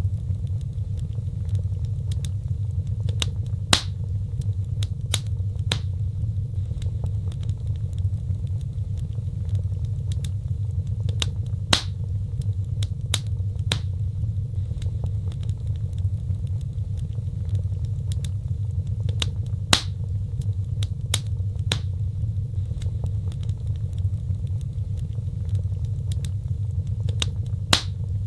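Wood fire burning: irregular sharp crackles and pops over a steady low rumble, with a few louder pops standing out.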